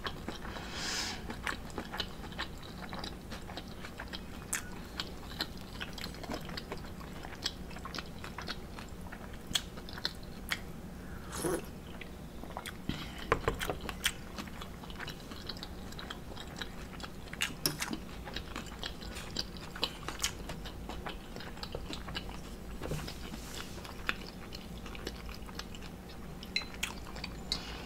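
Close-miked chewing of a forkful of omelet, wet mouth sounds with scattered small clicks over a low steady hum.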